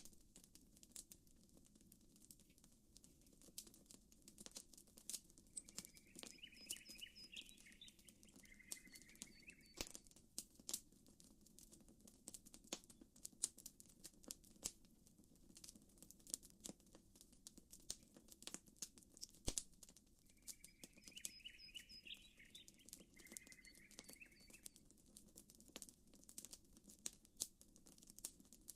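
Campfire crackling with many small irregular pops over a soft steady wash of gentle water. A bird calls twice with a short run of chirps, each a few seconds long, about five seconds in and again about twenty seconds in.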